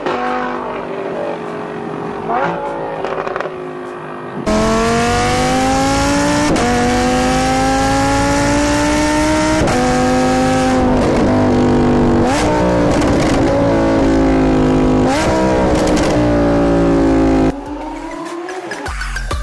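Lamborghini Huracán Spyder's 5.2-litre V10 through a Fi valvetronic catback exhaust, revving under hard acceleration. Its pitch climbs and drops sharply at each gear change. About four seconds in it jumps much louder, and later it dips and rises again in quick blips with a few sharp pops.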